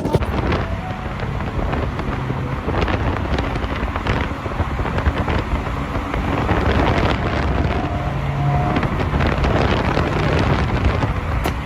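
A car running on the move, its engine noise blended with wind on the microphone.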